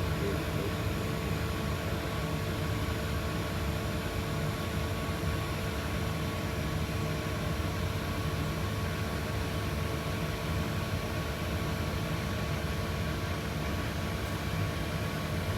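Boeing 737-800's CFM56 jet engines heard passing overhead: a steady rumbling rush with a faint, even whine.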